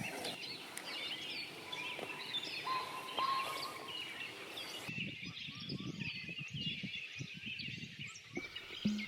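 Several birds chirping and calling, many short rising and falling notes overlapping. An irregular low rumble runs under them from about halfway through to near the end.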